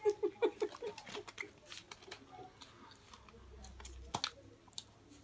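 Close-miked chewing and mouth sounds of people eating pizza: scattered soft clicks and crunches, with one sharper click about four seconds in.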